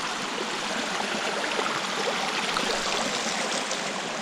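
Creek water rushing steadily: the even wash of a flowing mountain stream.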